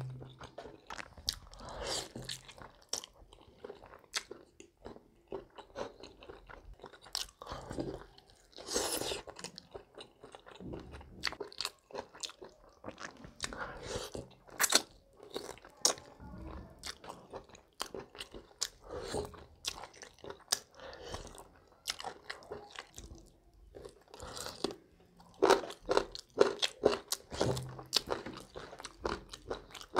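Close-miked eating of a sauced fried chicken leg piece: bites and chewing, with many short, irregular crunches.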